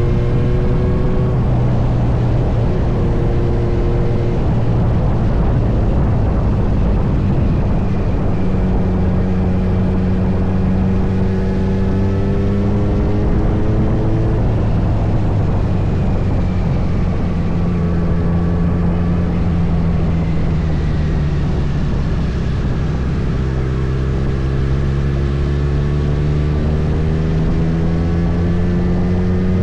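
Kawasaki Z900 inline-four engine running under way, its note climbing slowly and dropping back several times as the throttle and gears change, over a steady rushing noise.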